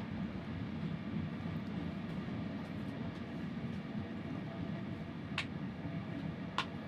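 Steady low rumble of a moving train carriage heard from inside, with two short clicks near the end.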